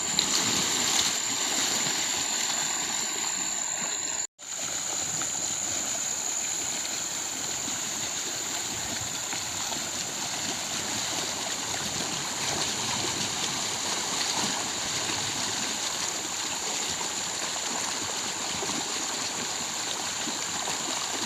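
Steady rushing of river water, with a thin high whine held over it. The sound drops out completely for a moment about four seconds in.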